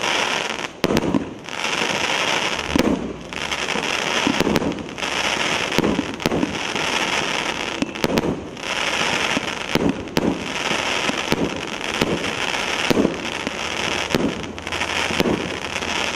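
An 84-shot consumer fireworks cake (battery) of 1–2 inch calibre, the Legenda 'Great Wall' A7707, firing a rapid barrage. Sharp bangs come one after another, one or two a second, with stretches of crackling glitter between them.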